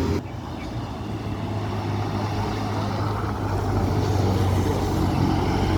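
Heavy vehicle's diesel engine running with a steady low drone, growing slowly louder.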